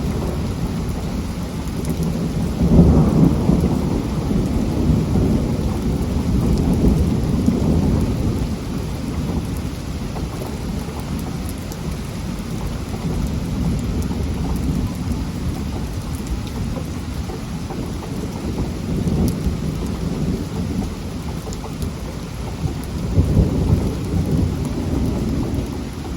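Heavy rain falling steadily while thunder rumbles in long low rolls, loudest a few seconds in and again near the end.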